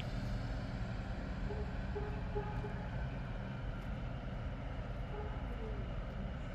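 Romanian 060-EA electric locomotive standing at rest, its onboard equipment running with a steady low hum, with a few faint short tones in the middle.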